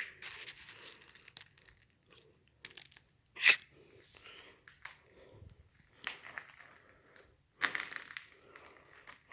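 Footsteps crunching and crackling on charred debris underfoot, in irregular steps, with a sharp, louder crunch about three and a half seconds in and another near the end.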